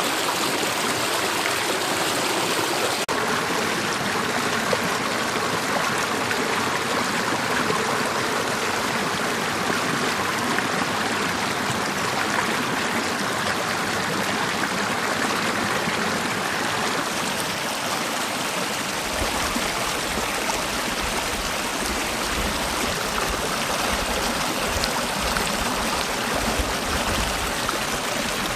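Mountain valley stream flowing, a steady rush of water. A low rumble joins underneath about two-thirds of the way through.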